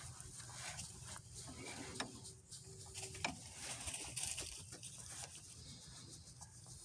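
Faint background hiss with a few small sharp clicks or taps, the clearest about two seconds and three seconds in.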